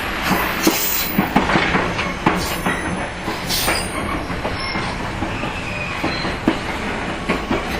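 JR 115 series electric train running, heard between two coupled cars: steady rumbling noise with frequent clacks and knocks from the wheels and the coupled car ends. Brief high wheel squeals come in about a second in and again around three and a half seconds.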